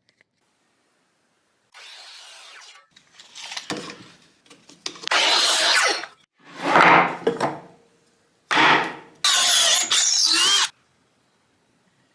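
Woodworking power tools cutting wood in a run of short separate bursts, several starting and stopping abruptly, the last with a motor whine that rises and falls.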